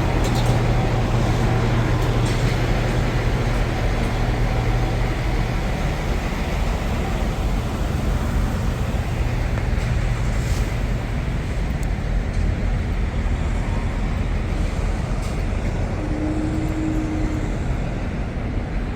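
Steady vehicle noise of trucks and traffic around a truck stop lot, with a low engine hum during the first several seconds.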